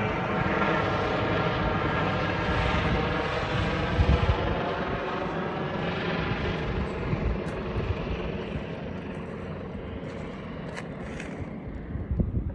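An aircraft passing over, a steady engine drone whose pitch drifts slowly down as it fades. There are a couple of short bumps, one about four seconds in and one near the end.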